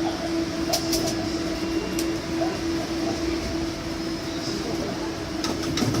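Steady rumble of a moving train heard from inside, with a constant low tone running through it and a few short clicks and rattles.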